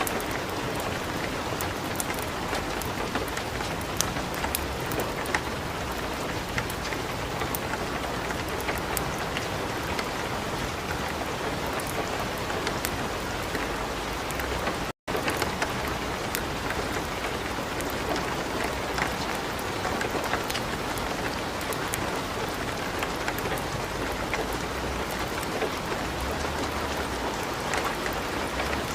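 Light rain pattering steadily, mixed with the sharp pops and crackles of a wood fire burning in a fireplace. The sound cuts out for an instant about halfway through.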